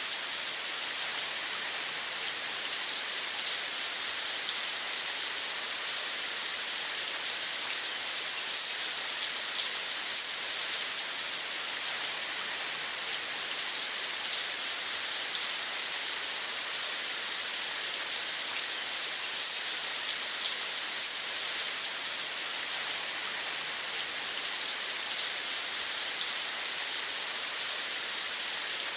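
Steady rain: an even hiss of many small drops falling without pause.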